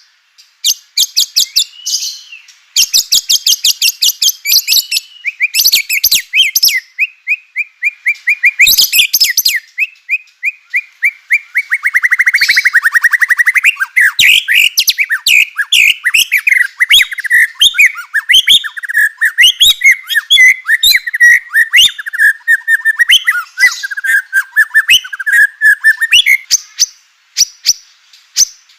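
White-rumped shama (murai batu) singing loudly. It opens with bursts of rapid, dry clicking rattles, and about twelve seconds in it breaks into a long run of fast, varied warbling and chattering notes.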